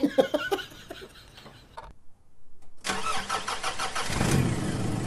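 Soft voice sounds, then a brief gap, then a car engine being started with the key. The starter cranks rapidly for about a second, then the engine catches about four seconds in and runs steadily.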